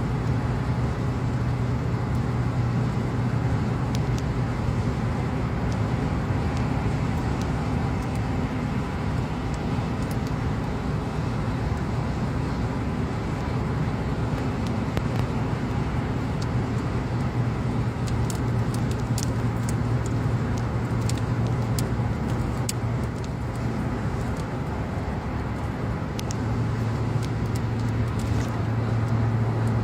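Steady road and engine noise of a car cruising at highway speed, heard from inside the cabin, with a constant low hum under the tyre noise. A few faint ticks come through in the second half.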